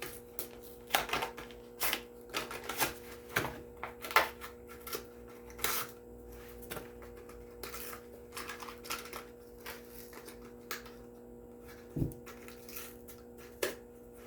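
Plastic blister packaging of a die-cast toy car being opened by hand: irregular crackles, clicks and snaps of the plastic and card, over a faint steady hum.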